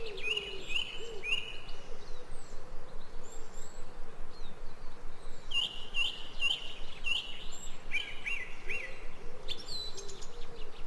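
Forest birdsong: a bird repeating short, high chirped notes in two bouts, the second and longer one starting about halfway through, with a lower call of repeated arching notes underneath.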